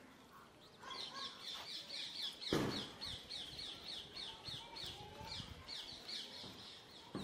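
A bird calling in a fast, even series of short high chirps, about four a second, with a single thump about two and a half seconds in.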